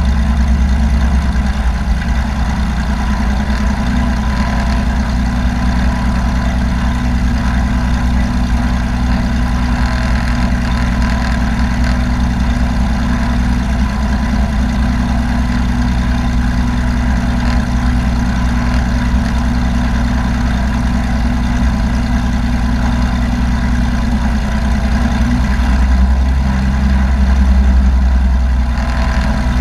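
Small airplane's engine and propeller droning steadily, heard from inside the cabin. The low hum grows a little louder for a couple of seconds near the end.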